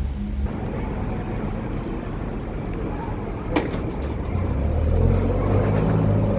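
Road traffic noise with a motor vehicle's engine hum building up in the second half, and one sharp click about three and a half seconds in.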